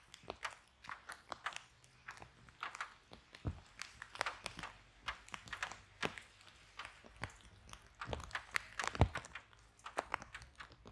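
Wood fire burning in a fireplace, crackling with irregular sharp pops, a few louder snaps about three and a half and nine seconds in.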